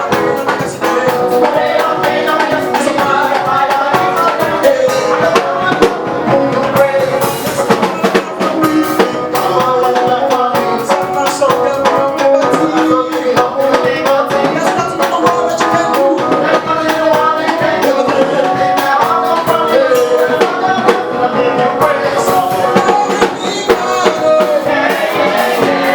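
Live gospel praise music: a band with a drum kit playing continuously, with singing over it.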